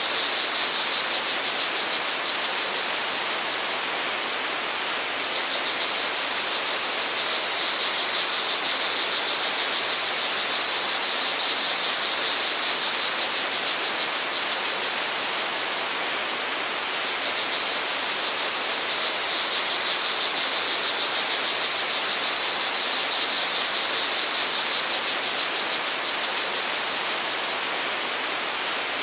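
Steady rush of a stream or waterfall, with crickets chirping in a fast high pulse that comes in several long bouts, pausing for a few seconds between them.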